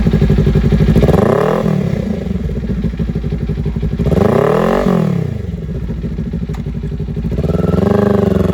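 2022 Kawasaki Ninja 400 parallel-twin engine running through an aftermarket LeoVince exhaust, idling between revs. It is revved in two quick throttle blips, then begins rising again near the end.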